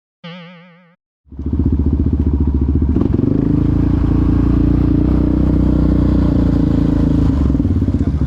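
A last synth note with a wobbling vibrato fades out. About a second in, a Yamaha Raptor quad bike's engine comes in loud and runs at a steady, even speed, its firing pulses ticking over without revving.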